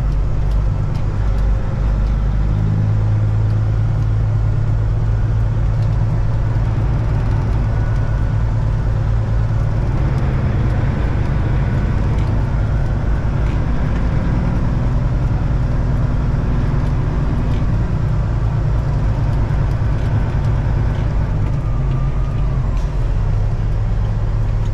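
Peterbilt 379 semi truck's diesel engine running steadily, a constant low drone with no change in pace.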